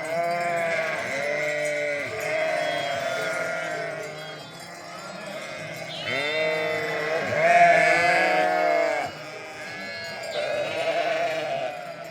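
A flock of sheep bleating, many calls overlapping one another throughout, loudest a little past the middle.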